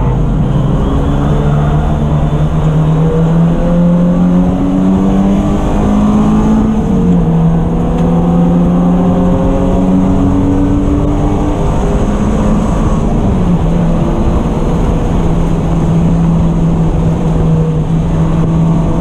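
Race car engine running hard under load. Its pitch climbs steadily, then drops sharply twice, about seven and thirteen seconds in, as it shifts up, and runs steady near the end.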